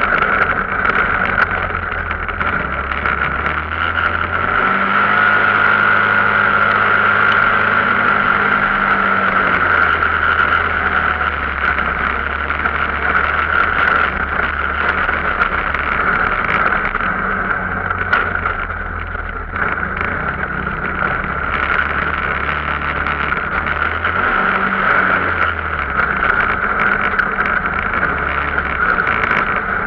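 A vehicle engine running while under way. Its pitch steps up for several seconds and then drops back, with a steady rushing noise over it.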